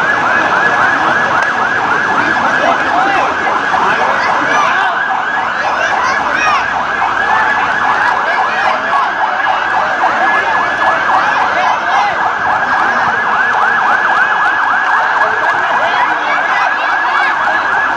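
Sirens wailing with rapid, overlapping up-and-down sweeps in pitch, loud and steady throughout.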